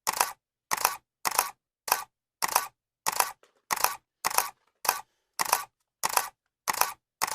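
Camera shutter clicking sound effect, repeated in an even rhythm about once every 0.6 seconds. Each shot is a sharp double click.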